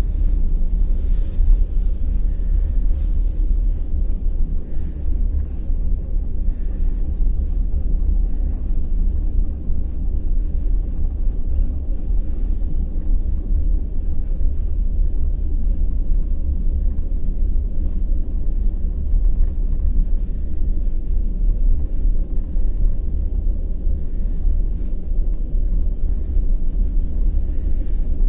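Wheels of a moving passenger train running on the rails, a steady low rumble.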